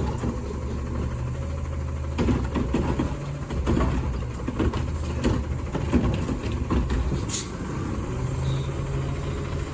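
Garbage truck's diesel engine running low and steady, with irregular clanks and knocks for several seconds and a short hiss near the end.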